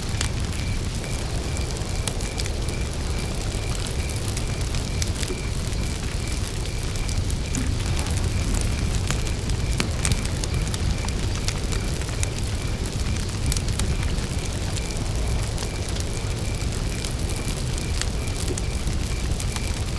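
Wood campfire burning with frequent sharp crackles and pops over a low steady rumble. A cricket chirps throughout in a steady run of evenly spaced high chirps.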